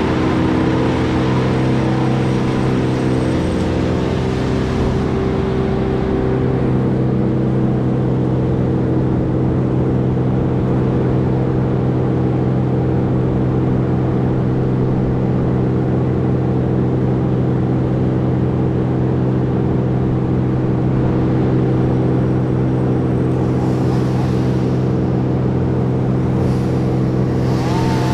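A heavy machine's engine running steadily at a constant speed, with extra hissing noise in the first few seconds and again near the end.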